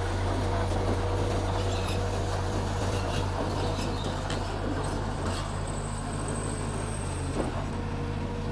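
Mitsubishi bulldozer's diesel engine running steadily, with a few light knocks in the second half.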